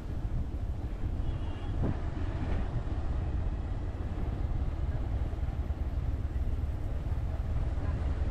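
Motorcycle running on the move, a steady low rumble with wind buffeting the microphone. A brief high-pitched tone sounds about a second in.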